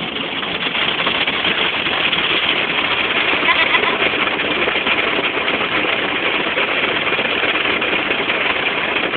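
Automatic car wash equipment running with a steady, loud rushing noise, heard from inside the car's cabin.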